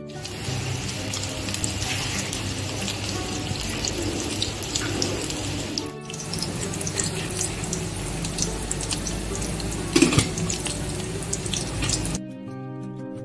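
Breaded chicken-and-potato cutlets sizzling and crackling as they shallow-fry in hot oil in a pan, with a brief break about six seconds in and a louder pop near ten seconds. The frying stops about a second before the end, and soft plucked-string music comes back.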